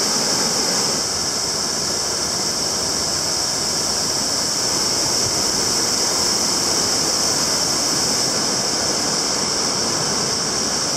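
Waterfall rushing steadily over rock as a close, even roar of falling water, with a steady high-pitched hiss on top.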